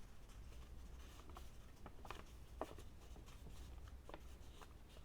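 Faint rustling and a few soft crackles of paper being wrapped around a cardboard toilet-paper roll, over a low steady hum.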